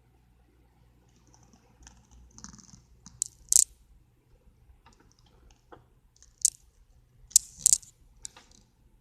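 Handling noise: scattered sharp clicks and crunchy rustles of small objects being moved about. The loudest clicks come about three and a half seconds in and again around seven to eight seconds in.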